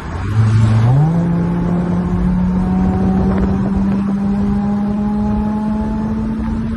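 2002 Toyota Celica GTS's 1.8-litre four-cylinder engine revving up sharply about a second in, then held at high revs with its pitch slowly climbing under hard acceleration.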